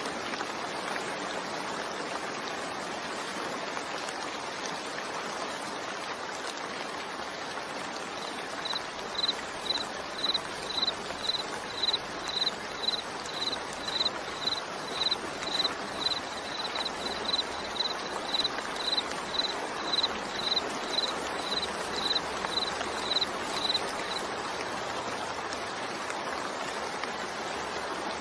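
Steady rain falling, an even hiss. Over it comes a high-pitched chirp or beep, repeated evenly about twice a second. It starts about a third of the way in and stops a few seconds before the end.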